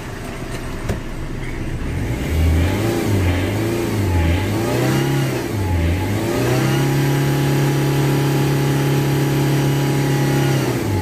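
Tata Indica Vista's diesel engine revved in several quick throttle blips, its pitch rising and falling, then held at a steady higher rev for about four seconds before dropping back at the end. The revving blows water and carbon out of the exhaust.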